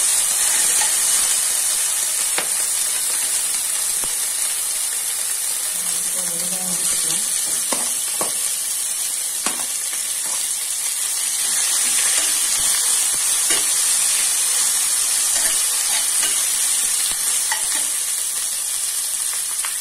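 Ginger-garlic paste and sliced onions frying in coconut oil in a stainless steel pot: a steady sizzle, with a spoon stirring and clicking against the pot now and then.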